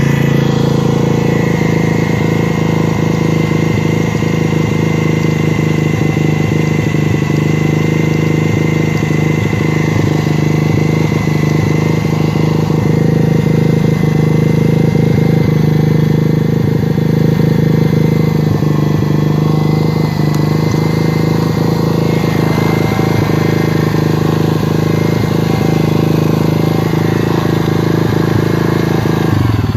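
X-Pro 125cc dirt bike's single-cylinder engine idling steadily at an even pitch, then cutting off abruptly at the very end.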